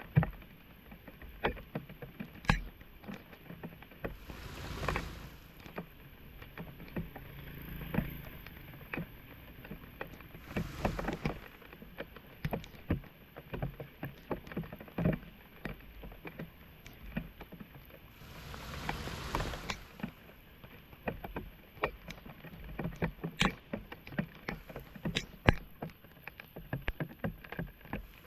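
Shallow floodwater being worked at a clogged street drain: many irregular short splashes and sloshes, with three longer swishing surges of water.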